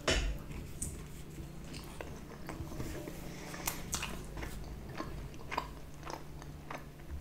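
A bite into a slice of pizza right at the start, then chewing close to the microphone: soft, irregular wet mouth clicks.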